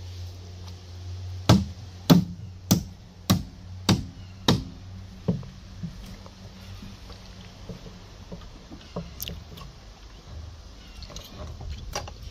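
Seven sharp, evenly spaced knocks, about one every 0.6 s, from a tool striking wooden formwork boxing on a cast concrete column to loosen it. The knocks start about a second and a half in and stop a little after the five-second mark.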